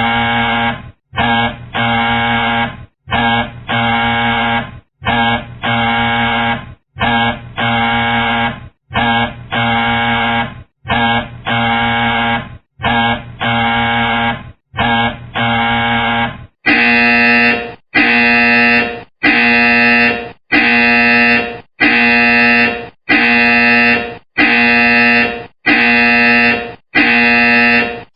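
Electronic doorbell sound effect ringing over and over, one ring of several stacked tones about every second with short breaks between. About two-thirds of the way through it changes to a different, brighter doorbell ring that repeats at the same pace.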